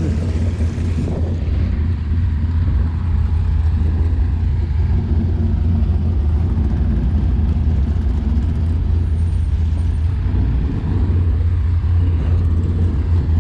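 A vehicle engine idling close by: a steady low rumble.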